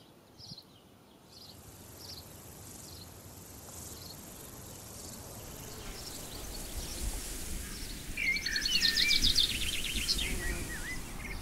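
Outdoor ambience of birds singing, fading in from near silence. Short high chirps come first. About eight seconds in comes a louder passage of fast trills and bending whistled notes, over a low rumble.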